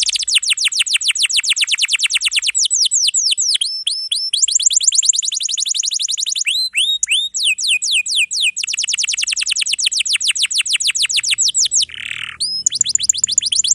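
Domestic canary singing non-stop: long fast rolls of rapidly repeated high notes, broken twice by slower runs of downward-sweeping whistles, with a short buzzy note near the end.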